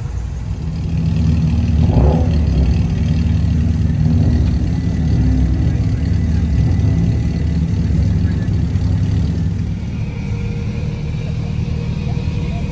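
A car engine running close by, a steady low rumble that grows louder about a second in.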